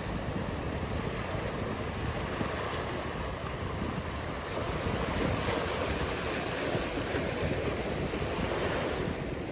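Ocean surf breaking and washing, with wind rushing over the microphone. The rush swells about halfway through and falls off suddenly near the end.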